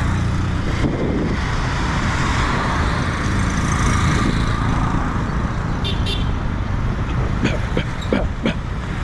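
Busy road traffic passing close by: a steady mix of vehicle engines and tyre noise.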